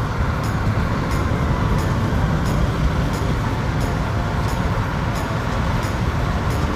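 Steady road and engine noise heard inside a moving car's cabin at highway speed, with a continuous low tyre rumble.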